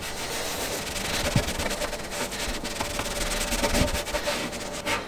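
Hands rubbing a decal's paper carrier sheet down onto a wet motorcycle fuel tank: a steady, scratchy rubbing as the sticker is pressed on and the water pushed out from under it.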